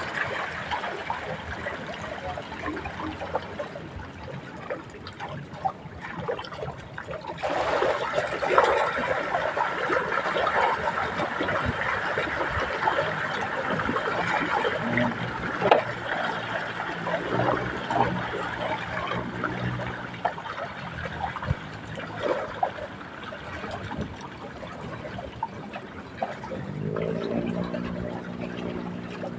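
Water trickling and sloshing without a break, with scattered small knocks and taps.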